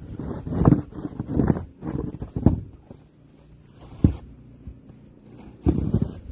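Snow shovel working through deep snow: about five irregular scrape-and-thud strokes, with a lull in the middle.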